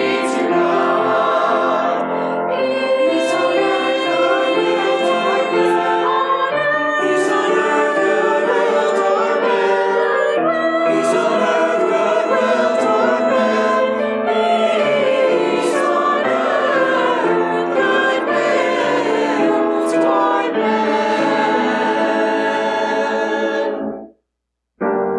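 Church choir singing a Christmas cantata in several voice parts, with sustained and moving notes. The singing cuts off abruptly about a second before the end, leaving a brief silence.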